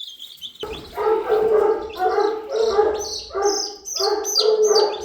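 A dog giving repeated pitched yelps, about two a second, starting just under a second in, over the high, continuous peeping of a brood of newly hatched chicks.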